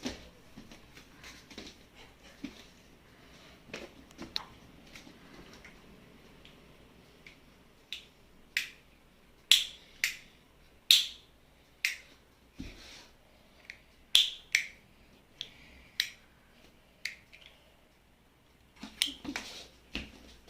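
A run of sharp clicks, about one a second through the middle stretch, with a short cluster of clicks near the end and fainter scattered clicks and handling noise early on.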